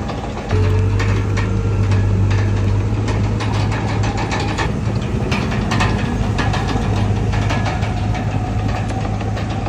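Komatsu D31PX bulldozer's diesel engine running with a steady low hum, getting louder about half a second in, with frequent clanks and clicks from the machine throughout.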